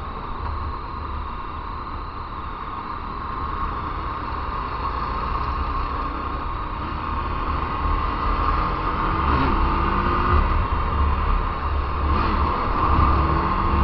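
Motorcycle riding through traffic, with wind rumbling on the microphone over the engine and passing vehicles. It grows gradually louder toward the end.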